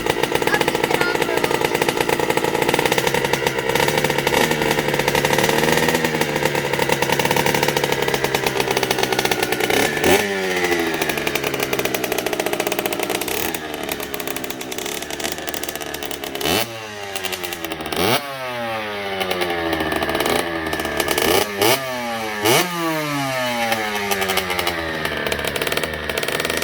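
Kawasaki KX65's small two-stroke single-cylinder engine running steadily, then given several quick throttle blips from about ten seconds in, each rev rising sharply and falling away.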